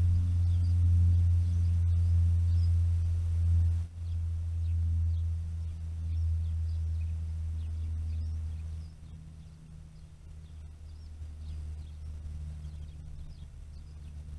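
Short, faint chirps of small wild birds scattered throughout, over a louder steady low hum that eases about nine seconds in.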